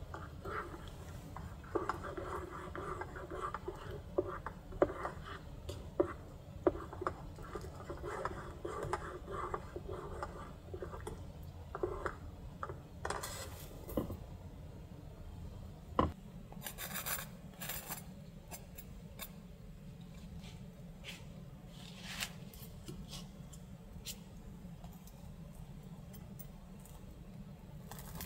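Small objects being handled: a quick run of light clinks, taps and rubbing, like dishes and utensils, busiest through the first dozen seconds, then a swish, one sharp click and scattered ticks. A steady low rumble lies underneath.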